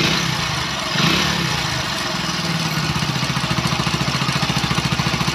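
Freshly rebuilt single-cylinder four-stroke engine of a 100 cc Hero Deluxe motorcycle, with its cylinder rebored and new rings fitted. The throttle is blipped briefly at the start and again about a second in, and the engine then settles into a steady, even idle. The mechanic says the piston knock is gone and the engine-noise problem is solved.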